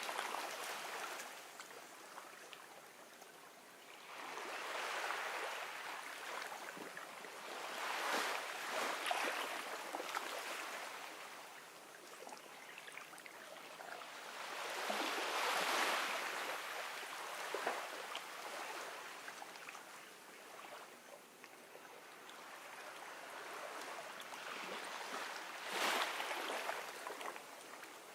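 Gentle ocean waves washing onto a beach, a wave surging in and fading back every several seconds, with the louder washes about a third of the way in, around the middle, and near the end.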